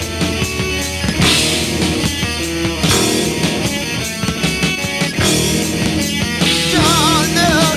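Rock band playing: electric guitar over bass and a drum kit keeping a steady beat, with a wavering vibrato melody line coming in near the end.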